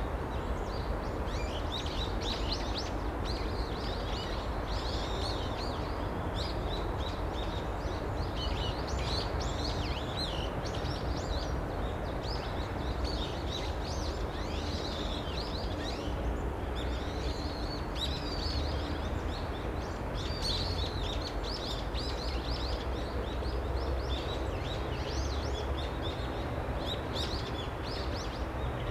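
Several small birds chirping and trilling in quick, overlapping calls throughout, over a steady low rumble.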